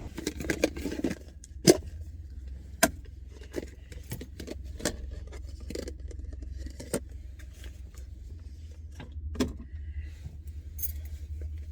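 Scattered sharp clicks and knocks with keys jangling, at irregular intervals, over a low steady hum.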